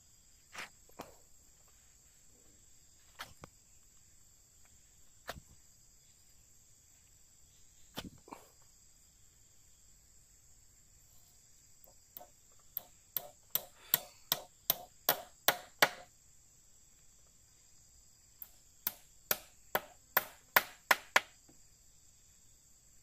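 A hand tool striking wood: a few single blows, then two quick runs of sharp strikes at about three a second, as in chopping or hammering during shelter building. Insects buzz steadily in the background.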